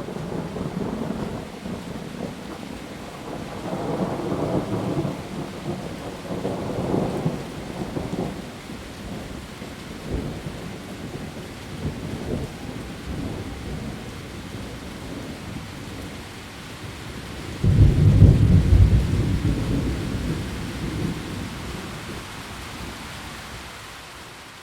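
A thunderstorm: heavy rain falling steadily on leaves, with rumbles of thunder swelling and fading. About two-thirds of the way through, a sudden loud thunderclap rolls away over several seconds.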